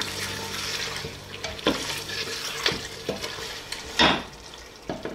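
Mutton and taro curry frying in a steel pressure-cooker pot, sizzling as it is stirred with a wooden spoon. The spoon knocks against the pot several times, loudest about four seconds in.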